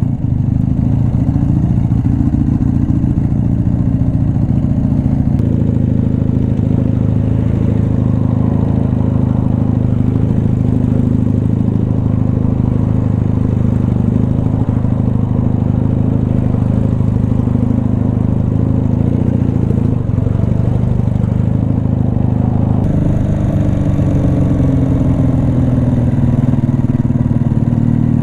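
A forty-year-old air-cooled motorcycle engine running steadily at low speed while filtering between lanes of stopped traffic, with wind rush on the bike-mounted microphone. Its note changes about 23 seconds in as the revs shift.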